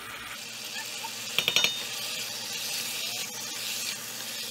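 Cubed pumpkin sizzling in a pot of curry paste, a steady hiss, with a short cluster of light clinks about a second and a half in.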